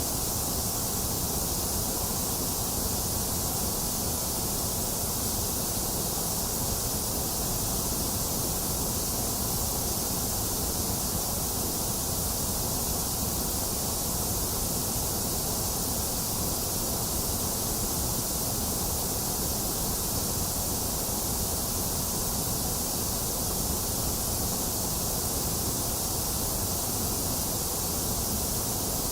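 Steady synthetic white-noise hiss, unchanging throughout, with a bright high hiss over a low rumble.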